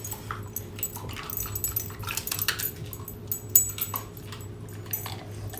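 Dogs crunching and chewing fortune cookies: irregular small crisp cracks and clicks over a steady low hum.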